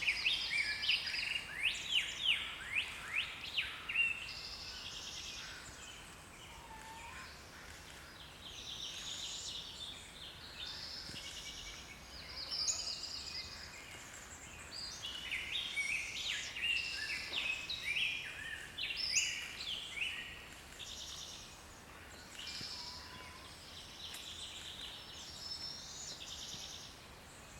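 Small songbirds calling and singing: a fast run of loud descending chirps in the first few seconds, then repeated high chattering phrases on and off over faint background noise.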